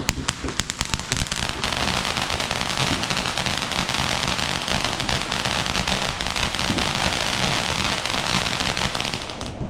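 Consumer firework crackling rapidly: a quick run of separate sharp pops, then a dense, continuous crackle of many small reports for about eight seconds, which stops fairly suddenly near the end.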